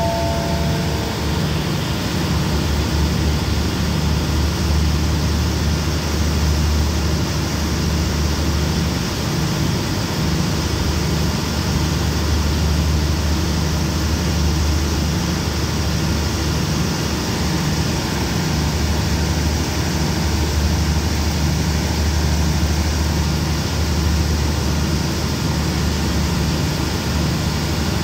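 Air-conditioned express passenger train standing at the platform with its engines running: a steady low hum with a slight throb. A short descending station chime ends about a second in.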